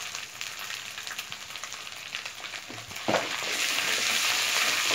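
Onion, ginger-garlic and spice masala sizzling and crackling in hot oil in a metal kadai, with fine pops throughout. About three seconds in, a perforated metal skimmer knocks the pan and starts stirring, and the sizzling grows louder and denser.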